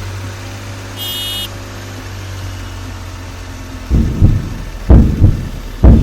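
A steady low mechanical hum, with a brief high electronic tone about a second in. From about four seconds in, heavy low thumps come roughly once a second, the beat of a music track starting.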